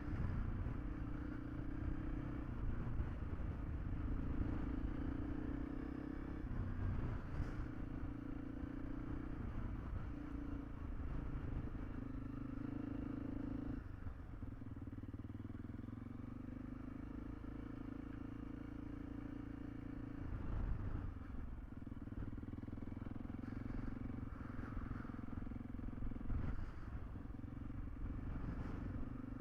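Honda CRF300L single-cylinder engine running steadily while riding, its note dipping and shifting a couple of times, with wind buffeting the microphone.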